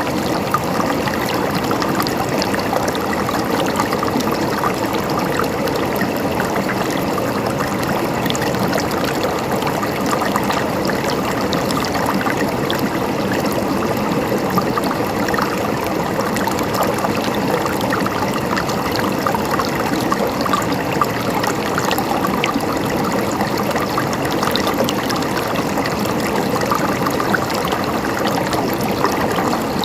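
River water flowing and burbling over stones: a steady, even rush with fine trickling detail.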